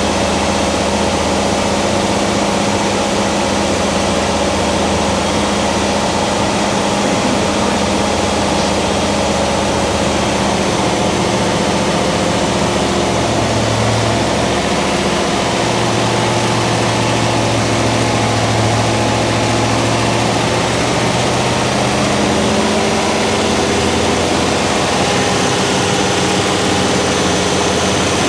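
A freshly built 1971 Chevy 402 big-block V8 with a mild roller cam, running steadily on its first fire-up. Its pitch shifts a little a few times.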